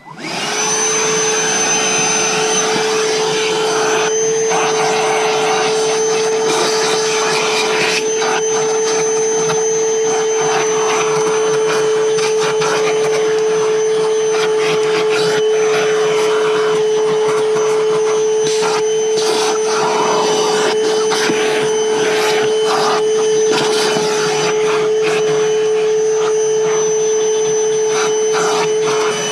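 Milwaukee M18 cordless wet/dry vacuum switching on and running steadily with a high whine, with scattered clicks as dirt is sucked up off the van floor.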